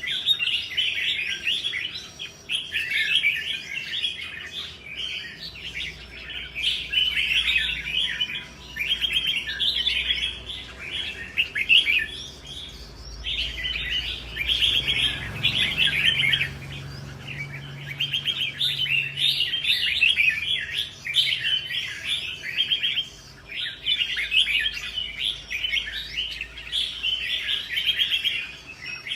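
Red-whiskered bulbul song: quick, chattering phrases a second or two long, repeated with short breaks.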